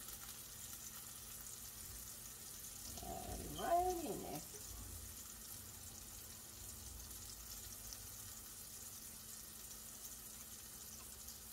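Plant-based burger patties frying in a stainless-steel pan, a steady faint sizzle. About three seconds in, a person gives a brief hum that slides up and down.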